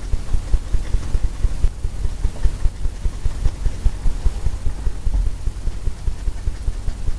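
Paintbrush tapping oil paint onto a canvas: a quick, steady run of dull low knocks, several a second.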